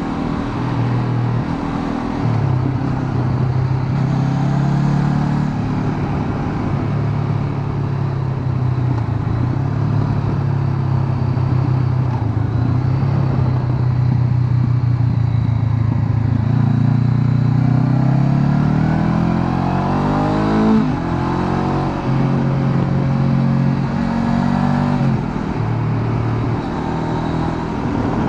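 Honda CB500X's 471 cc parallel-twin engine running under way. Its pitch holds steady, then climbs for several seconds as the bike accelerates, drops suddenly about three-quarters of the way in at an upshift, and eases down again near the end.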